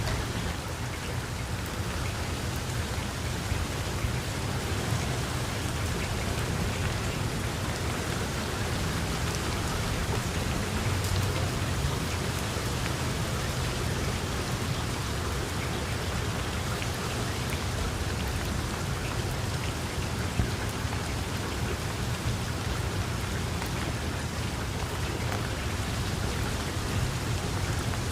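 Heavy rain falling steadily, with scattered drop ticks over a constant low rumble.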